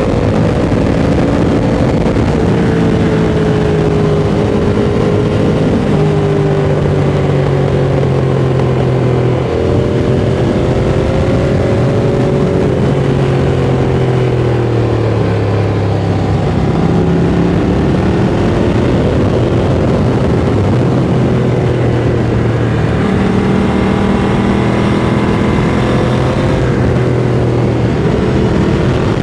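Ducati Monster 695's air-cooled L-twin engine running through an aftermarket Mivv X-Cone exhaust, heard onboard while riding. The engine note climbs and drops over and over, with several sudden changes in pitch as the bike accelerates, changes gear and eases off.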